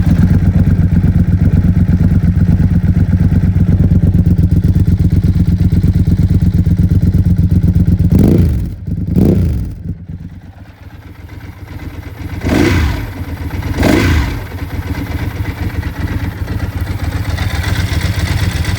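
Ducati 748's 748 cc V-twin engine running, just started from stone cold, idling steadily. Its throttle is blipped four times in two pairs, each rev rising quickly and dropping back, and after the first pair the idle sags lower before picking back up.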